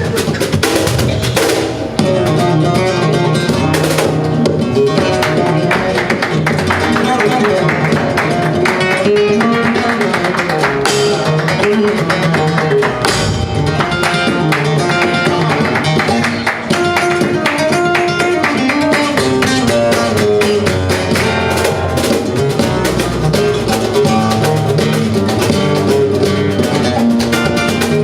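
Flamenco guitar playing, a fast stream of plucked notes with occasional sharp percussive strikes.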